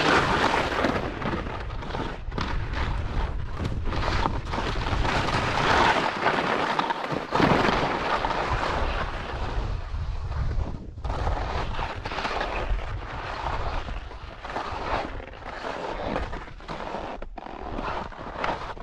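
Strong wind buffeting the microphone in gusts, a heavy low rumble that rises and falls throughout.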